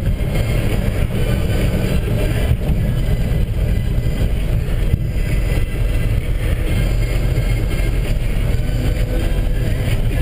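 1963 Chevrolet C10 pickup on the move, its 350 V8 with headers running steadily under way along with road noise, heard from inside the cab.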